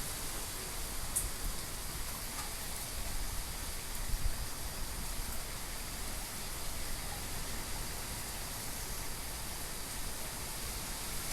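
Typhoon wind and rain: a steady wash of storm noise with small gusty swells.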